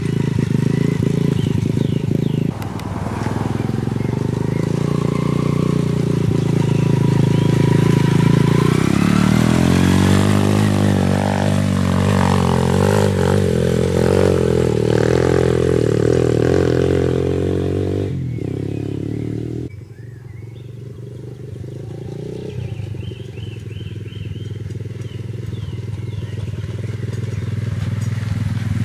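Pit bike's single-cylinder engine running through a small hill climb, revving up and down under the throttle. About two-thirds through the engine note drops suddenly to a lower, quieter running, then builds again near the end.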